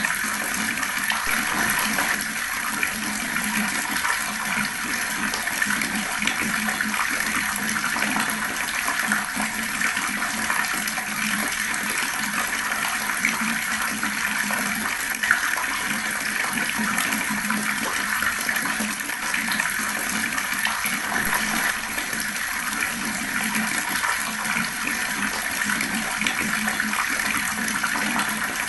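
Water tap running steadily, a continuous splashing stream of water.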